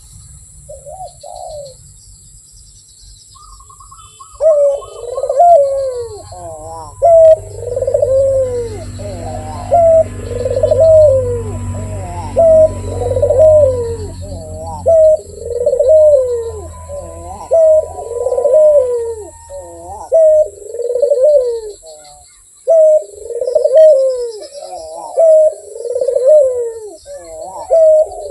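A puter dove cooing over and over: a steady run of rising-and-falling coos, roughly one a second, starting a few seconds in after a couple of short notes, with a brief pause near the end.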